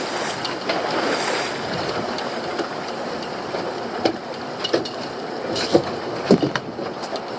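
Steady wash of wind and sea around a small fishing boat, with a handful of sharp knocks and clunks in the second half.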